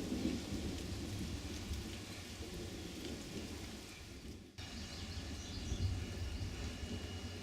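Rain with a low rumble of thunder, steady and noisy; it breaks off sharply about halfway through, and a steady low rumble with a faint high whine follows.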